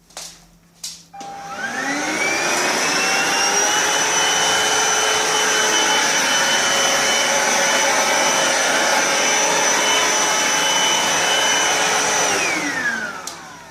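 Vax Cordless SlimVac cordless stick vacuum switched on after a couple of clicks, its motor whine rising to speed, running steadily for about ten seconds while cleaning along a radiator's corner edge with the crevice tool, then switched off and winding down near the end.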